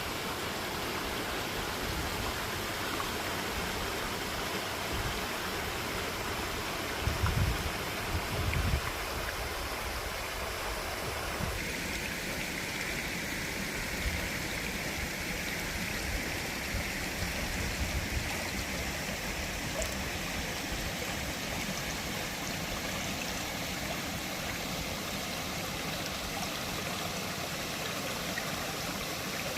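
Mountain stream rushing over rocks, a steady water noise; about eleven seconds in its tone changes suddenly, brighter and higher. A few low thumps come about seven to nine seconds in.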